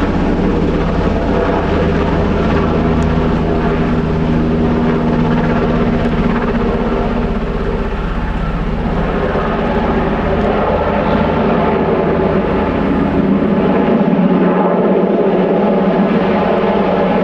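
Sikorsky S-92A helicopter's twin turbines and main rotor running loud and steady as it flies past low overhead.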